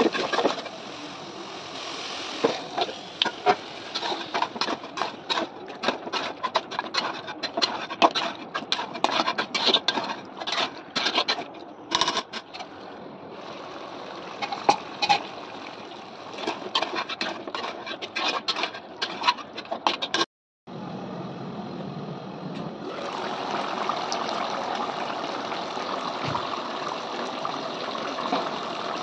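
Duck meat frying in an aluminium pot, with dense irregular crackles and the scrape of a spatula stirring. After a brief break about two-thirds of the way through, a steadier watery hiss of the pot cooking takes over.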